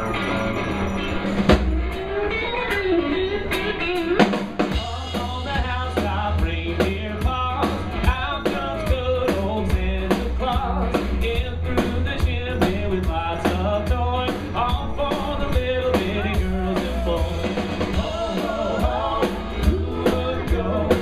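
Live band playing an upbeat rock song: a singer over drums and amplified instruments, with a heavy bass line coming in about five seconds in.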